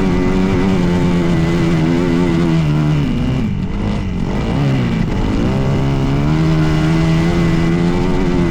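Dirt bike engine running at steady high revs. About three seconds in the revs fall away and swoop down and up for a second or two, then climb back and hold steady.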